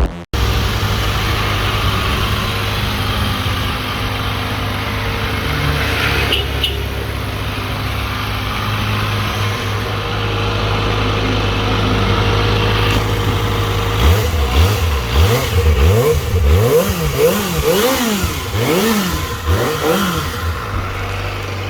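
Kawasaki ZX-25R's 249 cc inline-four idling steadily through a Villain R11 aftermarket exhaust, then revved in a quick run of throttle blips from about two-thirds of the way in, the note rising and falling repeatedly.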